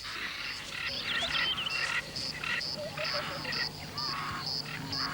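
Wet-season savanna chorus after rain: frogs calling, with a regular high pulsed call repeating about twice a second, and birds chirping and whistling over it.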